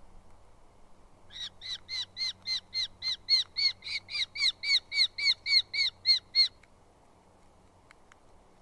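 Eurasian hobby calling: a rapid run of about twenty sharp, evenly spaced notes, roughly four a second. It starts about a second in, grows louder, and stops abruptly after some five seconds.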